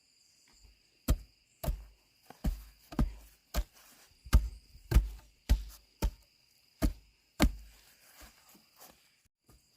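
About a dozen heavy blows struck one after another, roughly two a second, each with a deep thud, ending about three-quarters of the way through. Crickets chirr steadily behind.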